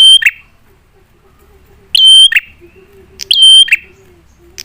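Prenjak (prinia) calling loudly, the same sharp call repeated about four times, roughly every one and a half to two seconds. Each call is a steady high note dropping to a shorter lower one.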